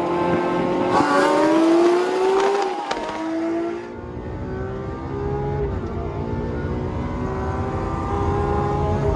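Supercar engines at full throttle, heard from inside the Lamborghini Aventador SVJ, whose naturally aspirated V12 races the McLaren 600LT Spider alongside. The engine note climbs steadily in pitch, drops at a gear shift about three seconds in, climbs again, shifts again near the six-second mark, and climbs once more.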